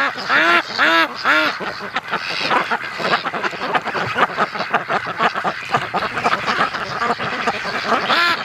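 A flock of domestic Pekin ducks quacking: a quick run of loud quacks at the start, then many quacks overlapping in a continuous chatter.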